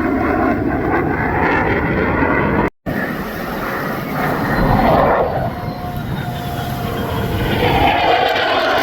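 Lockheed Martin F-35B's single F135 jet engine running loud and steady in flight. The sound drops out for a split second about three seconds in.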